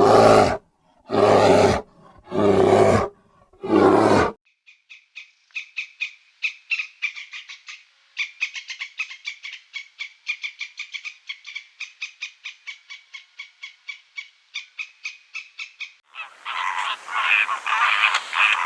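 A big cat roaring in about four loud, rasping calls, followed by a long run of rapid, high chirps, then geese honking loudly near the end.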